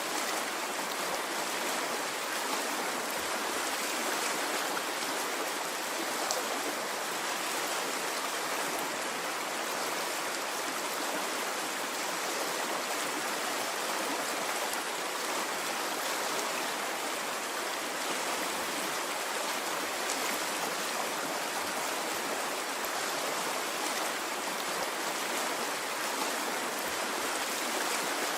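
Water of a stream running steadily: an even, unbroken rushing sound with no surges.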